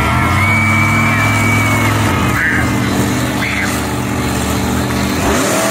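Monster truck engine running loud and steady, its note changing about two seconds in and again near the end.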